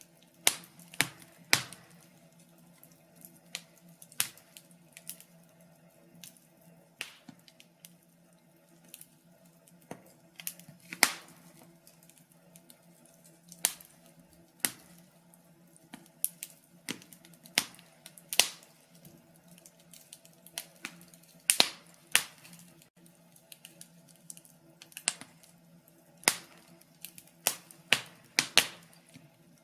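Wood fire crackling in a fireplace: irregular sharp pops and snaps, a few each second and uneven in loudness, over a faint steady low hum.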